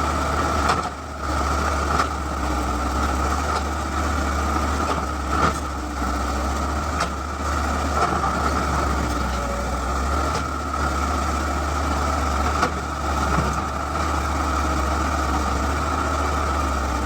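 Excavator's diesel engine running steadily, with a steady high whine over it and a sharp knock every few seconds.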